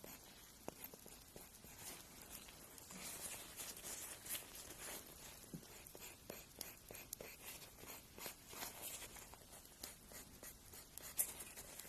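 Fingernail being filed: faint, irregular scratching strokes in quick succession.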